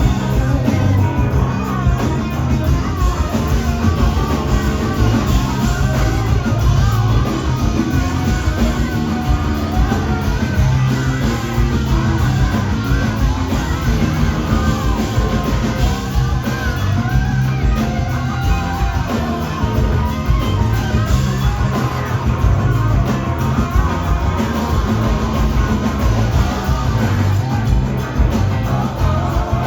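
Live rock band playing, with electric guitar and singing.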